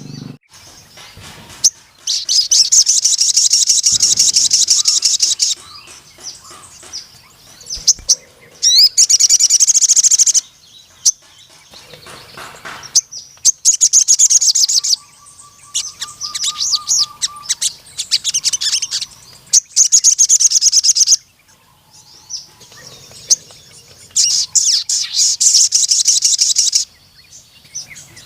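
A sogon bird singing in full voice: repeated long, very rapid high-pitched trills of a few seconds each, broken by shorter quieter chips and twitters. This is the vigorous song that keepers call 'gacor', with long 'nembak' bursts.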